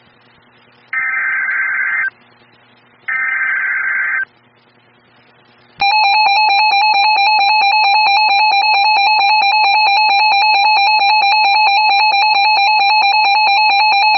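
Weather radio alert: two short bursts of the SAME digital header's buzzy data warble, then from about six seconds in a loud, steady alert tone announcing a tornado warning.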